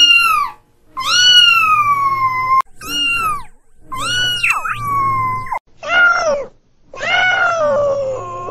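Kitten meow sound effect, played as six separate meows with short gaps, each falling in pitch. The same meow is altered by editing effects from one meow to the next.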